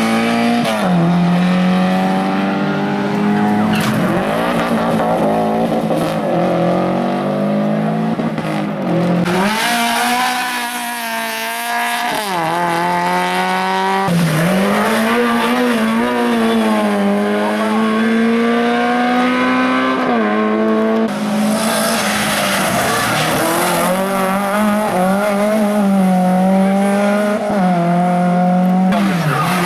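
Race car engines revving hard, the pitch climbing and dropping again and again through gear changes, with tyre squeal. The engine note changes abruptly a few times.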